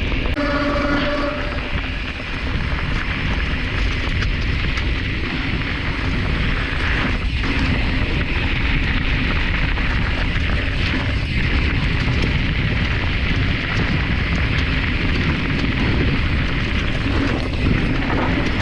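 Heavy wind rush on the microphone and the rolling rumble of a Specialized Stumpjumper mountain bike's tyres on a dirt trail during a downhill ride, a steady loud noise with no break.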